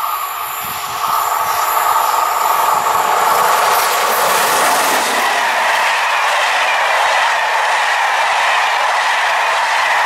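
Intercités passenger train of Corail coaches passing close by on a curve, its loudness rising over the first second and then holding as the coaches roll past. The wheels on the rails make a steady rolling noise with a ringing tone running through it.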